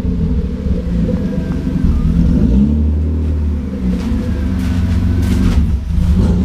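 BMW E36's engine running at low revs as the car is crept forward into a garage, the revs rising and dipping a little. A short rustle comes about four to five and a half seconds in.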